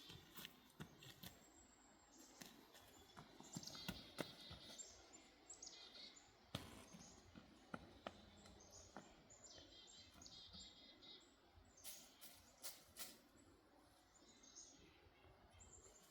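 Faint songbirds singing, with repeated high chirps and fast trilled phrases coming and going, over a quiet outdoor background with scattered faint clicks and knocks.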